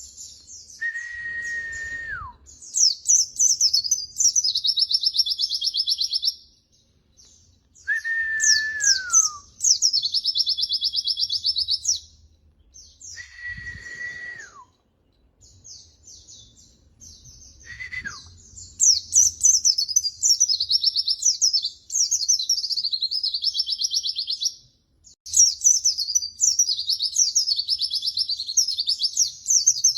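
Pleci (white-eye) singing in long, fast, chattering high-pitched trilled phrases with short pauses between them. A clear lower whistle that holds steady and then drops at its end cuts in four times in the first two-thirds.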